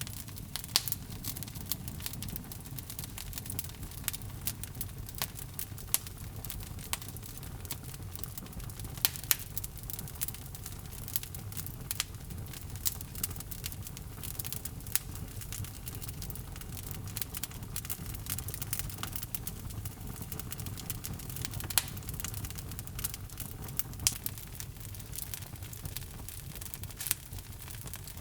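Wood logs burning in a fireplace: a steady low rumble of flame with frequent irregular sharp crackles and pops.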